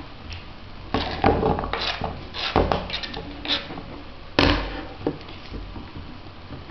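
A paring knife chopping apple into chunks on a cutting board: irregular sharp knocks and clatter, the loudest a little over four seconds in.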